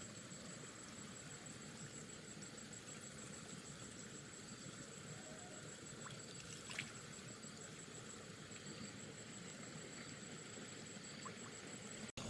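Quiet outdoor background noise with a faint, steady, high-pitched pulsing trill, and a single click about seven seconds in.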